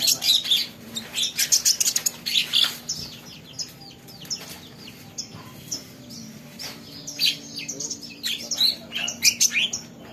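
Olive-backed sunbird (kolibri ninja) chirping in quick runs of short, high calls, broken by brief pauses. A faint steady hum runs underneath.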